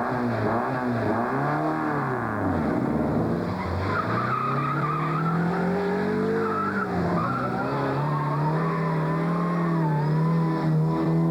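Classic rally car's engine revving hard, its pitch swinging up and down several times over the first few seconds, then climbing slowly and steadily as the car accelerates, with tyres squealing.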